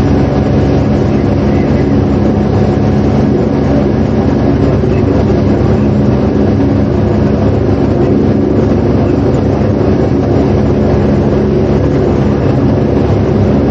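Steady loud mechanical drone with a low hum of several pitches, running without change.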